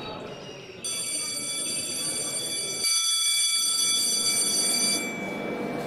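A steady high ringing tone with many overtones comes in about a second in and cuts off suddenly about five seconds in, over a low background rumble.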